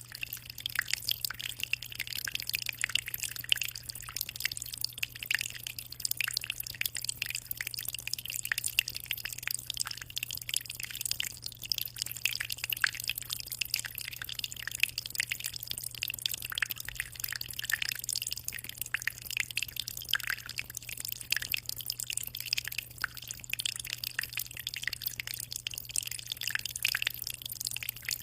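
Aquarium water trickling and splashing constantly, a dense, even patter of small drips and splashes with no pauses, over a steady low hum.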